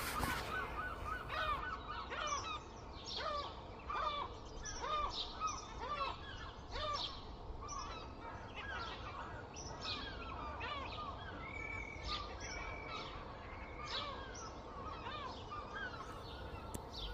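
Many birds calling at once: short, overlapping chirps and calls that repeat throughout over a faint background hiss.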